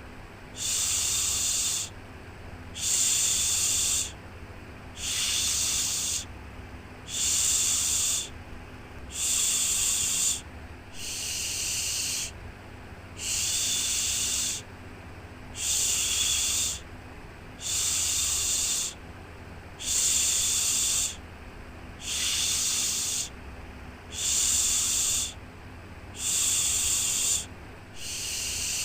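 Rhythmic shushing 'shhh' sound for soothing a baby to sleep: a hissing shush about every two seconds, each lasting just over a second, with short quieter gaps between. A faint steady low hum runs underneath.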